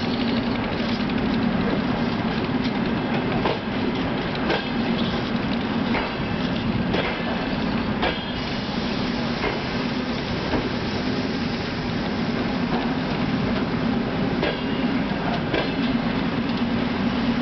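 Arriving passenger train hauled by an EP2K electric locomotive, rolling past: a steady rumble of wheels on rail, with irregular sharp clicks from the wheels and rail joints.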